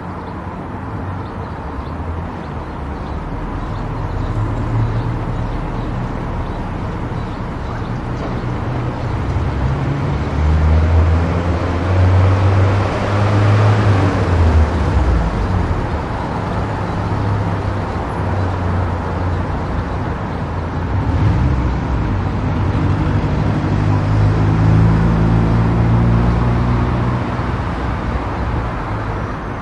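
Car driving on a highway: steady road and tyre noise with a low engine hum that drifts in pitch, swelling louder around the middle.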